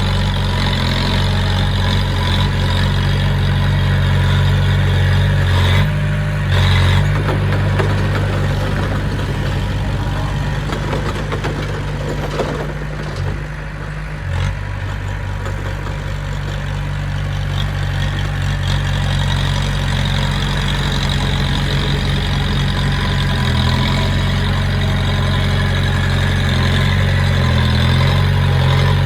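Heavy earthmoving machine's engine running steadily at low speed, with a brief surge about six seconds in and a short dip in the middle.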